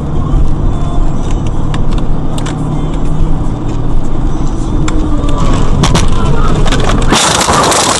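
Car driving, a loud low rumble of engine and road noise with scattered clicks. About seven seconds in, a sudden loud rushing noise takes over and keeps going.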